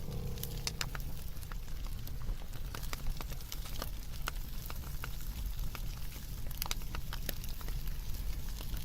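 Wood fire burning: irregular sharp crackles and snaps over a low, steady rumble.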